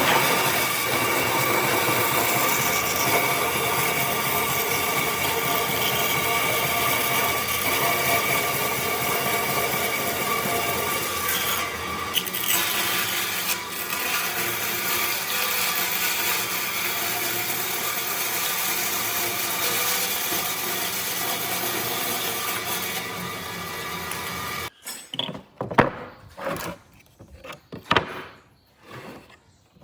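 A power tool running steadily on wood with a constant whine, then cutting off abruptly about 25 seconds in. After it stops there are scattered knocks and taps.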